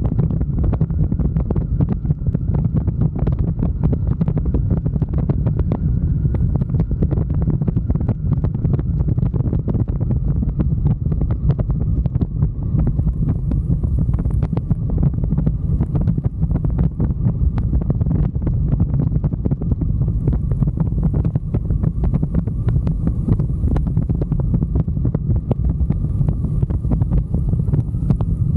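Wind buffeting the microphone of a riding motorcycle, a loud steady low rumble with constant irregular crackle, the bike's engine and road noise buried under it.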